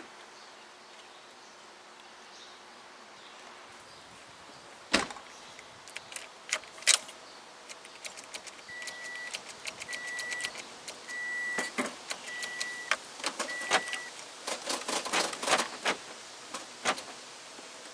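Sounds of a car being readied to start: a sharp knock about five seconds in, keys jangling and clicking, and an electronic warning chime beeping five times at one steady pitch, then a quick run of clicks and rattles as the ignition key is worked. No engine crank is heard: the car fails to start.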